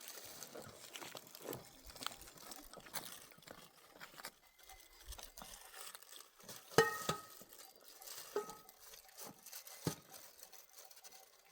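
Scattered small clicks and light rustling of things being handled. About seven seconds in there is one sharp, ringing clink, followed by a fainter ringing tap a second or so later.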